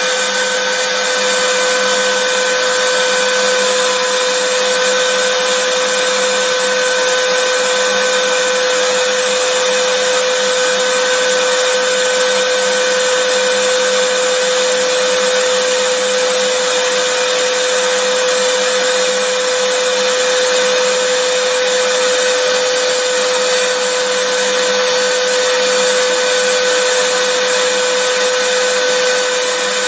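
Vacuum cleaner motor running at a constant speed: a steady whooshing rush with a high steady whine, used as white noise.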